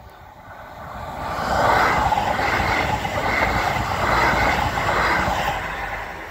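Electric passenger train running past at the crossing. A steady rush of wheel and rail noise builds over the first second or so, holds for about four seconds as the cars go by, and fades near the end.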